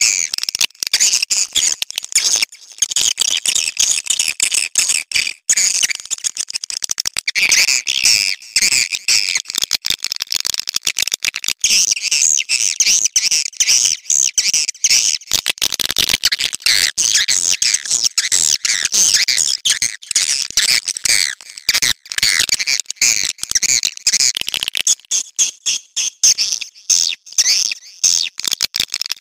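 Swiftlets chittering in a dense, continuous stream of rapid high twitters and clicks: swiftlet mating calls, the kind of call sound used to draw swiftlets in. The chatter thins out a little near the end.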